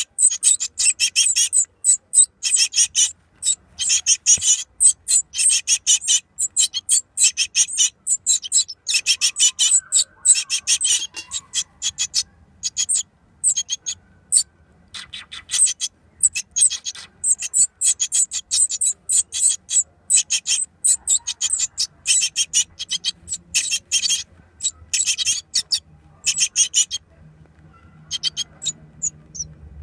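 Great tit nestlings, nearly ready to fledge, calling in a rapid, high, raspy chatter that comes in bouts and thins out near the end.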